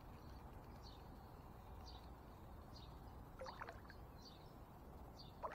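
Near silence: faint steady outdoor background noise with faint high bird chirps every second or so, and a brief, slightly louder chirping call about three and a half seconds in.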